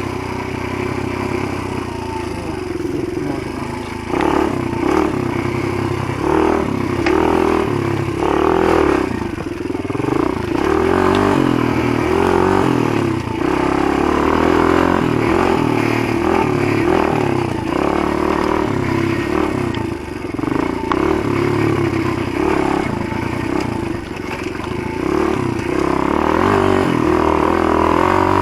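Motoland GF125 pit bike's 125 cc single-cylinder four-stroke engine being ridden, its note rising and falling again and again as the throttle is opened and closed, over a steady rush of noise.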